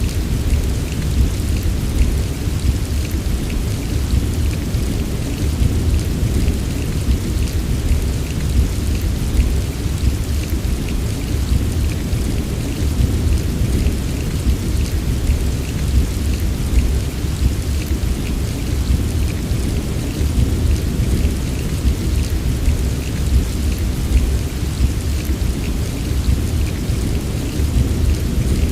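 Steady heavy rain, with a continuous deep low rumble beneath it and many small drop ticks on top; no single thunderclap stands out.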